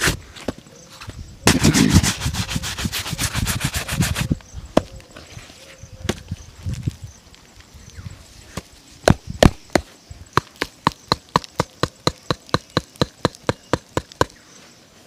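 Shoe brush rubbed quickly back and forth over a leather shoe. Then comes a run of sharp clicks or taps, sparse at first and then about three a second.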